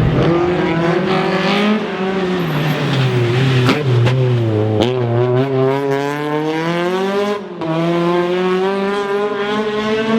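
Rally car engine under hard acceleration, its pitch climbing and falling as it changes gear, with two sharp cracks about four and five seconds in. It dips briefly past the seven-second mark, then climbs steadily again.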